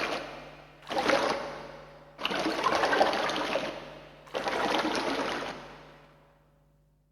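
Repeated gushes of spurting liquid. One is already under way, then three more follow a second or two apart, each starting suddenly and trailing off, until the sound dies away near the end.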